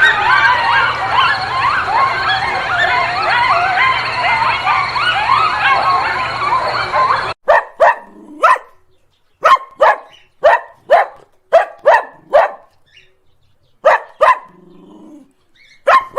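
A dense chorus of many overlapping high, rising squealing calls, cut off sharply about seven seconds in. Then a dog barking in single sharp barks, about fifteen, in irregular groups of two to four.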